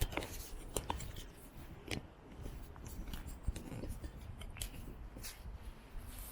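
Scattered sharp taps and clicks at uneven spacing over a steady low rumble.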